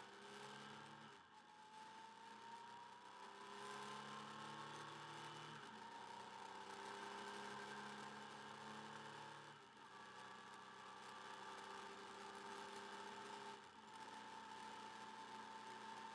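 Motorcycle engine running under way, heard faintly through the bike-mounted camera's mic, its pitch slowly climbing with brief dips a few times, over a faint steady hiss.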